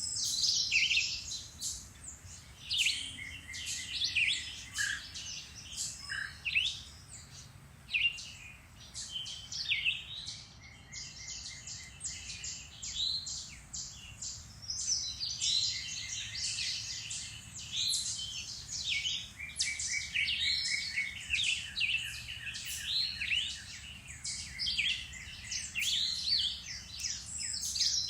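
Several songbirds singing and chirping in a busy chorus, with overlapping short calls and fast trills that keep on without a break.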